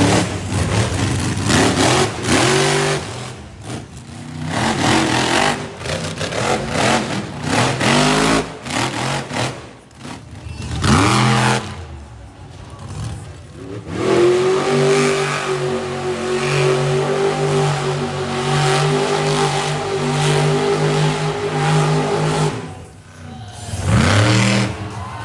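Monster truck engines revving hard in repeated rising bursts, with a long stretch near the middle held at steady high revs.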